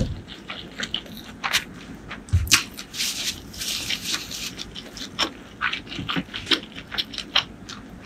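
Close-up mouth sounds of chewing a mouthful of food, with wet smacking clicks. Between about 3 and 4 seconds a paper tissue rustles as the mouth is wiped.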